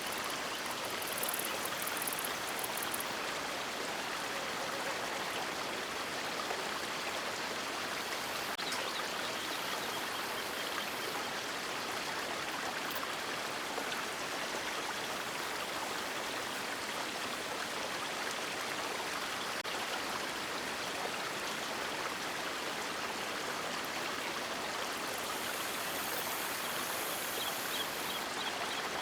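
River water rushing steadily in an even, unbroken wash of noise.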